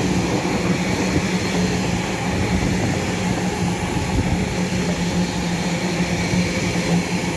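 Two coupled CAF-built Class 331 electric multiple units running through a station: a steady rush of wheels on rail with a steady low hum.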